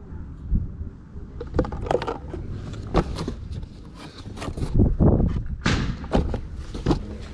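A series of irregular knocks and thuds, loudest around five seconds in, with a brief rustle just before six seconds, over a low rumble.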